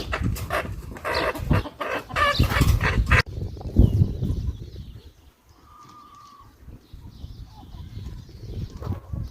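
Busy animal calls that stop abruptly about three seconds in, at an edit. A quieter outdoor background follows, with one short, steady-pitched call partway through.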